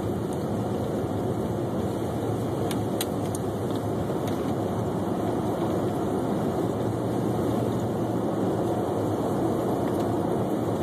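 Steady drone of a car driving at about 40 mph on a snow-covered highway, heard from inside the cabin: engine and tyre noise at an even level. A few faint ticks come about three seconds in.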